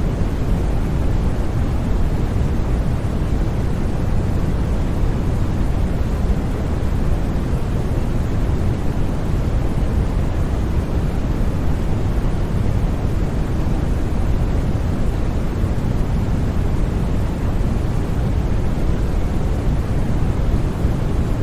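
Generated white noise: a steady, unchanging rush with no breaks or sudden sounds, heaviest in the low end.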